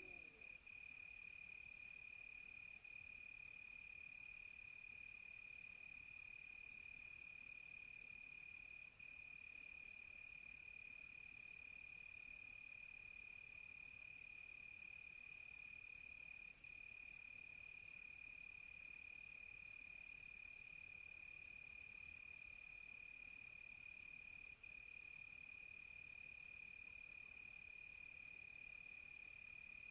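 Night chorus of crickets: one a steady, unbroken high trill, another chirping in even on-off pulses, and over them a faint, very fast high-pitched insect buzz that stops for several seconds past the middle and comes back near the end.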